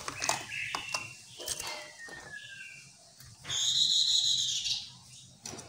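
Chestnut-capped laughingthrush calling: a string of short sharp notes, a thin falling whistle about two seconds in, then a loud, high, drawn-out note lasting over a second near the middle.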